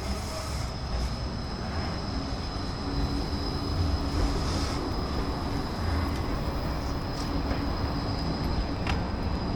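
Steady rumble of a passing vehicle in a city street, with a low hum that comes in for a few seconds in the middle.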